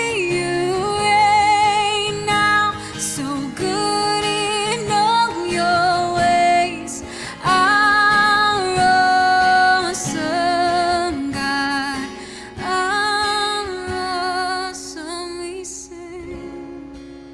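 Slow worship music: a singer holding long notes with vibrato over a guitar, fading near the end.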